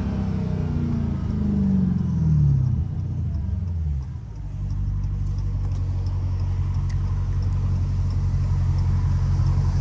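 Straight-piped Dodge Challenger Hellcat's supercharged 6.2 L Hemi V8 coasting down, its exhaust note falling in pitch. About four seconds in it settles into a steady, deep idle.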